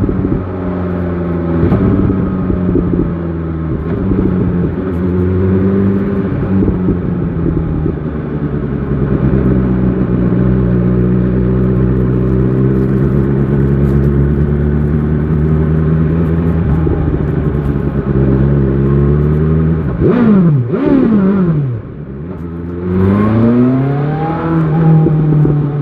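BMW S1000 XR motorcycle engine running at a steady cruise. Near the end the revs drop sharply with a quick blip or two, fall low for a moment, then rise steadily again as it pulls away.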